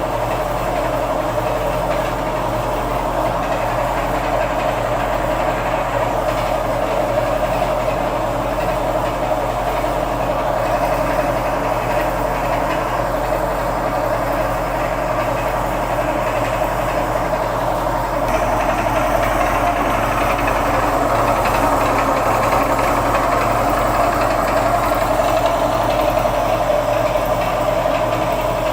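Homemade spring-and-flywheel generator rig running steadily: a continuous mechanical whir over a low electrical hum, growing a little louder about two-thirds of the way through.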